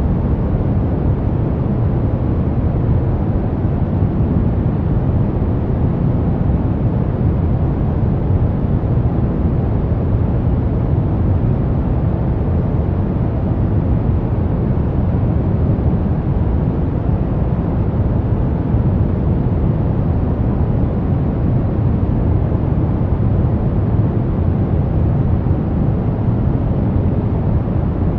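Steady brown noise: an even, deep rumbling hiss, loudest in the bass and thinning toward the treble, unchanging throughout.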